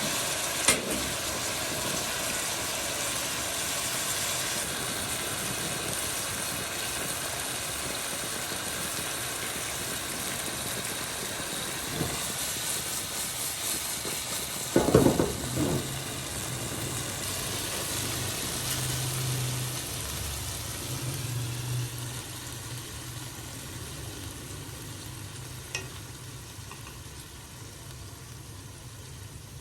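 Food sizzling in hot oil in a pan. The hiss slowly dies down, a few sharp knocks are heard, one near the start and a cluster about halfway, and a low hum comes in about halfway.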